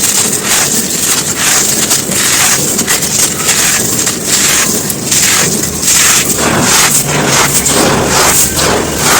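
Dry, crumbly chunks being crushed and crumbled by hand: a dense, continuous run of crunching and crackling.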